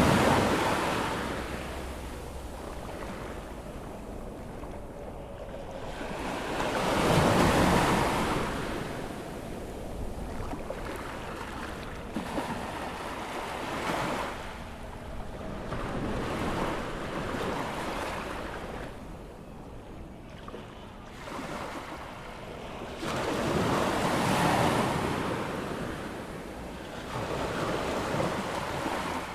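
Ocean waves breaking and washing up a sandy beach on an incoming tide, in slow surges: three louder breakers, about a second before the start, around seven seconds in and around twenty-four seconds in, with quieter wash between. Some wind buffets the microphone.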